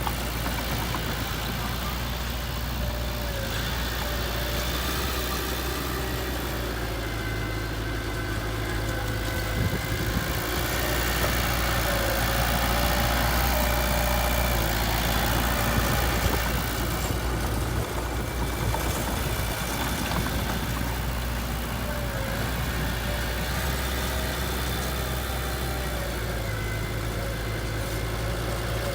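Heavy machine engine running steadily at a low, even pitch, getting a little louder for a while in the middle.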